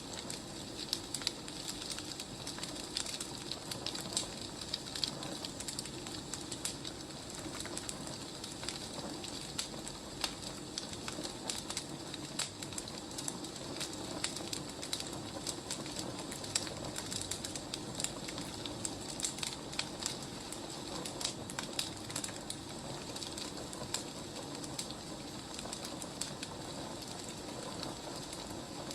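Wood fire burning, with a steady low rush and frequent irregular crackles and pops of the burning logs.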